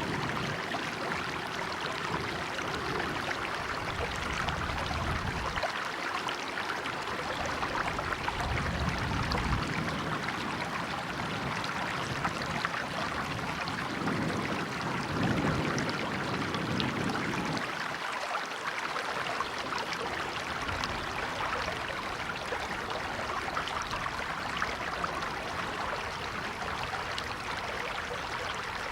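River water flowing steadily over rocks in a constant rushing wash, with a low rumble that swells and fades under it now and then.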